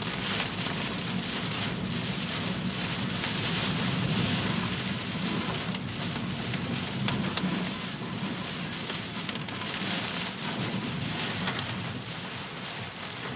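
Heavy typhoon rain pouring down in a steady downpour.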